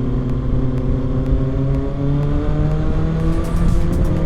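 Kawasaki ZX-6R's 636 cc inline-four running under load while riding, its note rising slowly and steadily as the bike gathers speed, with wind rumble on the microphone.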